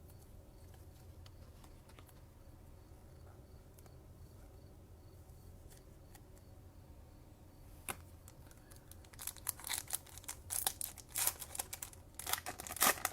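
A trading card pack's foil wrapper being torn open and crinkled: a single click about eight seconds in, then a run of sharp crackling rustles to the end, after a faint stretch.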